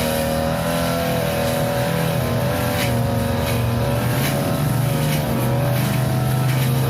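Small petrol engine of a grass-cutting machine running steadily at high speed, its pitch wavering slightly as it works, with a few brief sharp hits mixed in.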